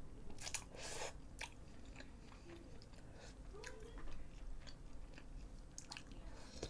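A person chewing food, with scattered soft, faint clicks.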